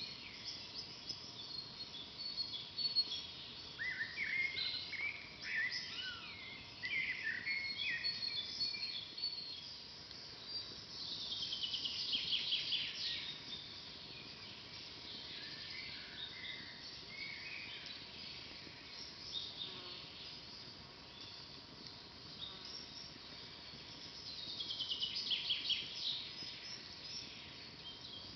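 Songbirds singing in woodland: a scatter of short chirps and song phrases, with a trilled song that falls in pitch heard twice, about a third of the way in and near the end, over a faint steady hiss.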